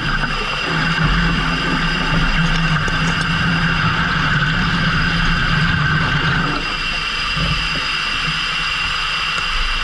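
Fishing boat engine running steadily, with a steady high whine over it that drops away about six and a half seconds in.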